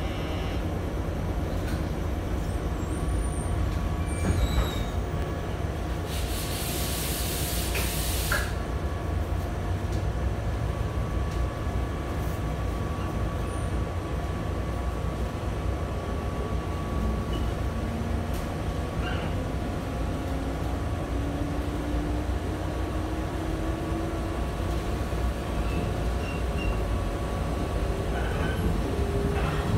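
Cabin running noise of a JR West 123 series electric railcar pulling away and gathering speed, with a steady rumble of wheels on rail. About six seconds in there is a two-second hiss of air. Through the second half a motor whine rises steadily in pitch.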